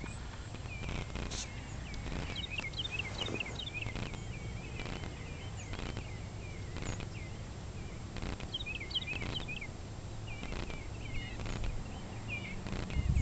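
Small songbirds chirping in repeated short bursts of quick high notes, over a steady low outdoor rumble, with faint scattered clicks or pops.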